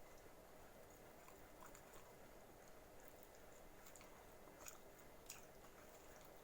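Faint close-up chewing of pizza: soft wet mouth clicks and smacks over quiet room tone, with two slightly louder ones a little after the middle.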